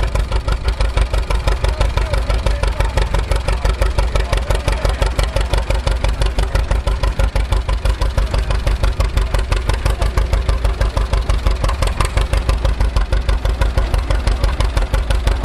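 Antique engine idling, with a fast, even beat of low firing thumps.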